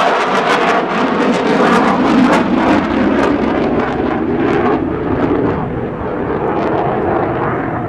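Eurofighter Typhoon's twin Eurojet EJ200 turbofans running loud in a display pass: a rough jet roar with crackling, easing a little in its second half.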